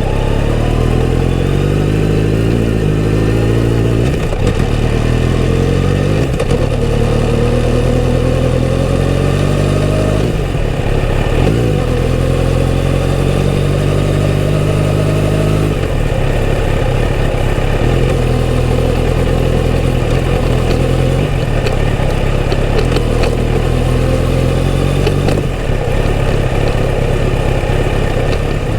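Kawasaki Z900RS's inline-four engine through its stock exhaust while riding. The pitch climbs under acceleration and drops back at gear changes, several times.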